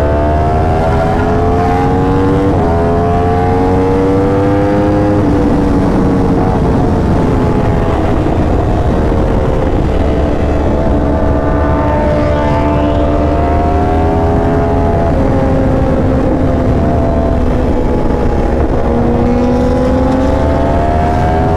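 Superbike engine pulling through the gears, its pitch climbing and then dropping at each upshift, several times over, with steady wind rumble on the microphone.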